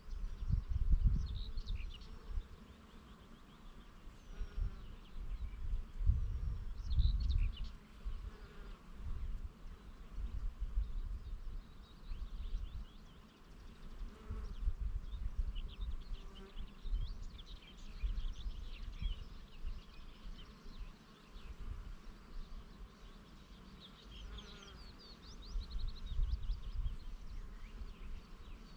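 Bees buzzing among flowers, with birds chirping in short repeated calls and gusts of wind buffeting the microphone, loudest about a second in and again around six seconds in.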